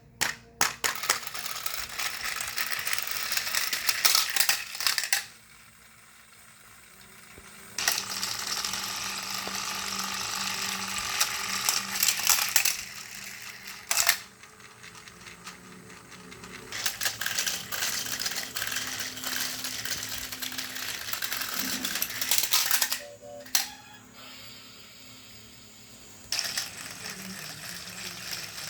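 Battery-powered Thomas & Friends toy engines running, with small motors whirring and plastic parts rattling in long clattering stretches. Quieter pauses come about five seconds in, around fourteen seconds, and again after about twenty-three seconds.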